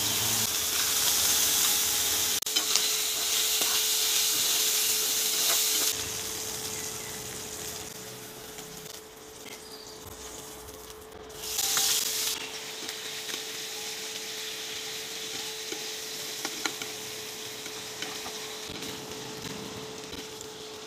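Boiled chicken pieces pan-frying in garlic oil in a stainless steel pan. The sizzle is loud for the first six seconds, then settles to a lighter steady sizzle, with a brief loud flare of sizzling a little before halfway as pieces are turned. A few light clicks of the slotted spoon against the pan and a faint steady hum underneath.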